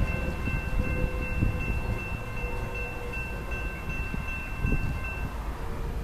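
A train fading away down the line: a low rumble mixed with wind on the microphone, under a steady high ringing of several tones sounding together that stops about five seconds in.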